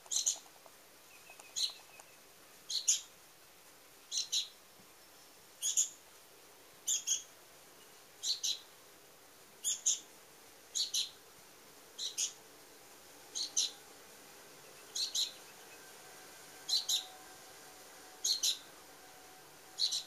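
A small songbird calling over and over: a short, high double chirp about every second and a half, with some calls single.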